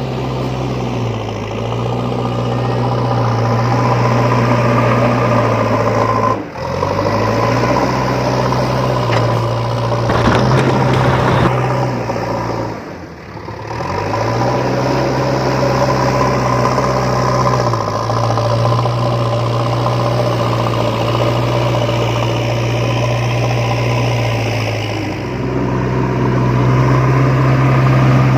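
Truck engine running steadily, its low hum stepping up and down in pitch, with a brief drop about six and a half seconds in and a longer dip around thirteen seconds in.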